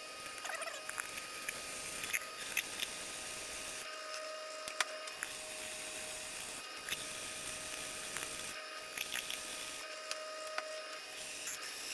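Tool work on the steel cleaver blade made from a mower blade: a steady noise with a faint tone and scattered sharp clicks, pausing briefly several times.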